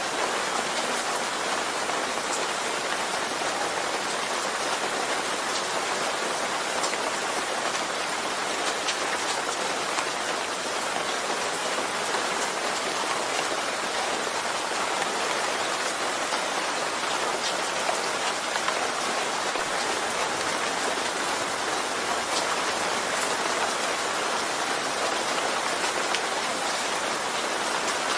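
Steady rain falling, an even hiss of many drops hitting a surface, with scattered sharper drop ticks.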